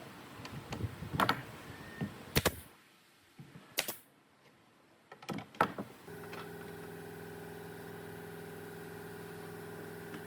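A few sharp knocks and clatters, then about six seconds in a motor starts and runs with a steady hum.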